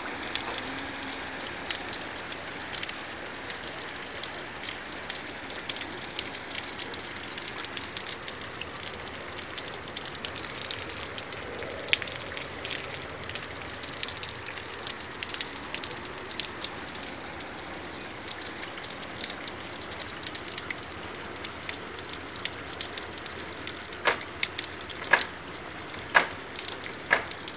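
Heavy rain falling steadily: a dense hiss of drops with running water. A few sharp ticks stand out near the end.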